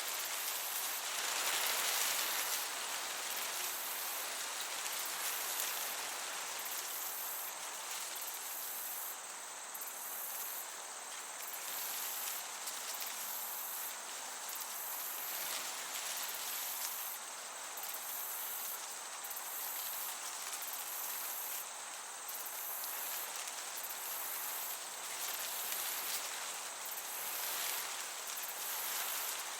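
Crickets chirping steadily in a summer meadow, one high even trill with another higher chirping that switches on and off every second or so, over the soft hiss of a gentle breeze.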